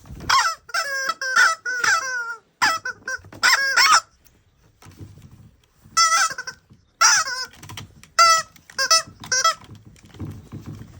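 Common raven giving a series of short, nasal calls in quick runs, with a pause of about two seconds midway.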